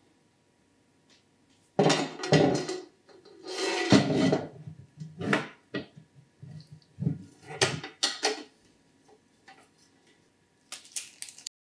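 PC hardware being handled while a power supply is fitted into the case: irregular knocks, scrapes and rattles of hard parts. A short cluster of clicks near the end, then the sound cuts off abruptly.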